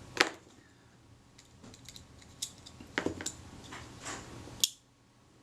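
Small metallic clicks from a Pronto leaf shutter being worked by hand while its B lever is tested: a handful of sharp clicks spread over a few seconds.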